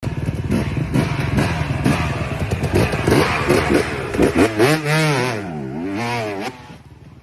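Dirt bike engine running hard, then revving up and down several times, its pitch swinging. The sound drops away sharply about six and a half seconds in.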